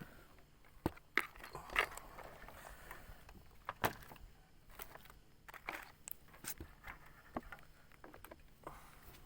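Scattered light clicks and knocks at irregular intervals over a faint steady background, the sharpest about one, two and four seconds in.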